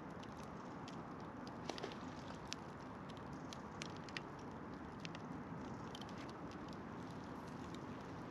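Wood campfire crackling: irregular sharp pops and snaps, about a dozen of them, over a steady low hiss.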